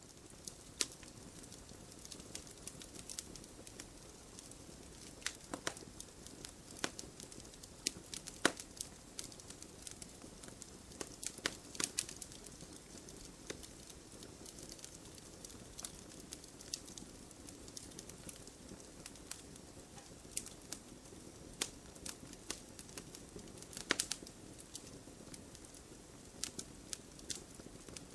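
Wood fire crackling: irregular sharp pops and snaps over a steady low hiss of burning, with a few louder pops scattered through.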